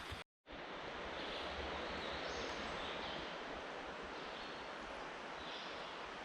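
Steady rushing of a mountain stream, starting just after a brief dropout.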